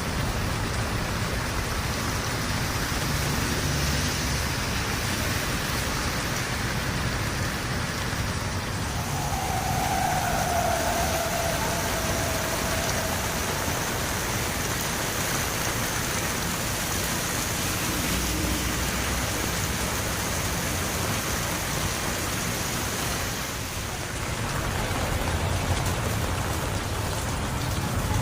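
Steady rain falling as a continuous even hiss, with a faint falling whine about ten seconds in.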